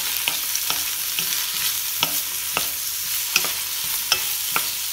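Sliced vegetables sizzling in oil in a nonstick wok while a wooden spatula stirs them. A steady hiss runs under frequent, irregular light knocks and scrapes of the spatula against the pan.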